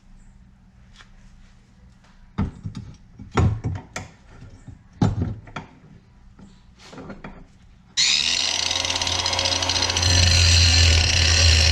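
A few sharp metal knocks and clanks, then about eight seconds in a power tool starts abruptly and runs loudly and steadily with a low hum, getting louder a couple of seconds later.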